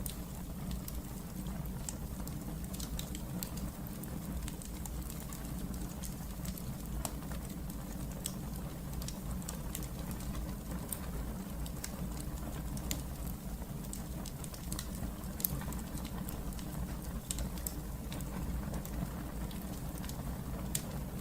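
Wood fire burning in a fireplace, crackling with frequent small irregular pops over a steady low rumble.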